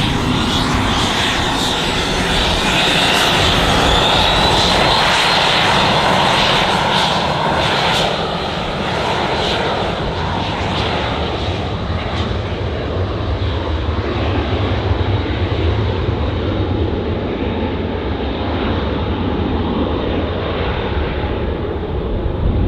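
Aircraft engine noise from a passing airplane. A high whine rises in pitch a few seconds in, then the high hiss fades away over the second half, leaving a low rumble.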